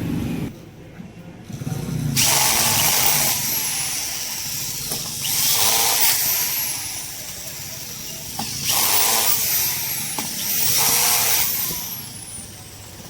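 Small power tool run in four short bursts of about a second each, with a high-pitched whir that rises and falls in pitch as it spins up and down.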